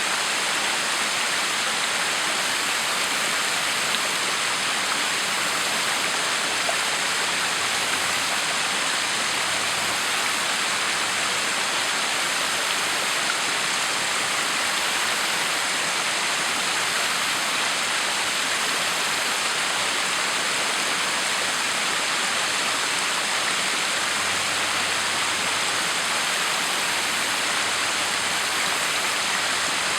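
Backyard waterfall: a steady, unbroken rush of falling, splashing water.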